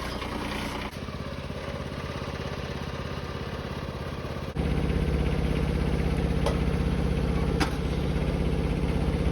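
An engine running steadily with an even pulse, stepping up abruptly to a louder, fuller run about halfway through. Two faint short clicks near the end.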